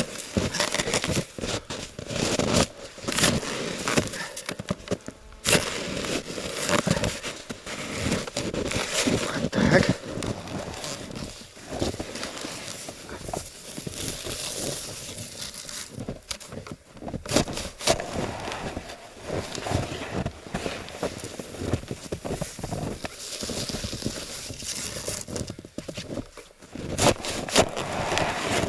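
Snow shovel cutting into and scraping packed snow off a roof, with irregular crunches and knocks of snow being heaved off.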